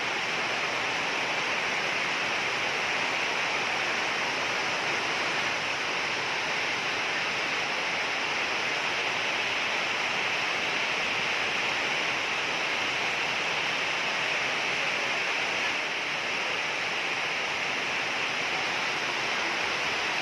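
Heavy rain falling steadily, an even rushing hiss at a constant level.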